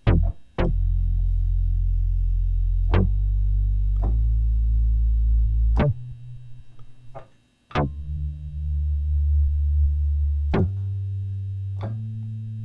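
Fender Rhodes electric piano played through an Electro-Harmonix Bass Mono Synth pedal on its Growl setting: a run of low, sustained synth-bass notes, each starting with a sharp key attack. There is a short lull about six seconds in before the notes resume.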